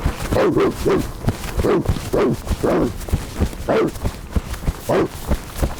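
Dog-like vocal sounds from a person playing a werewolf: a run of short, falling yelps or pants, about two a second, over soft low thumps.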